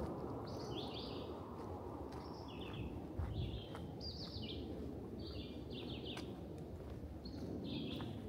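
Songbirds chirping in the forest, short repeated notes about twice a second, over a steady low rumble of outdoor background noise with a few faint clicks.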